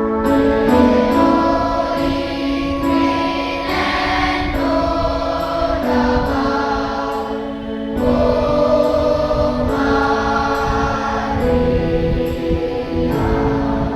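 Boys' choir singing a hymn in harmony, holding sustained chords that change every second or two.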